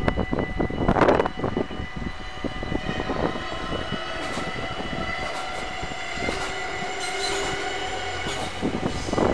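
Electric passenger train running over a level crossing, its wheels clicking over the rail joints and its drive giving a steady whine from about three seconds in. Steady warning tones from the crossing ring throughout, and a gust of wind hits the microphone about a second in.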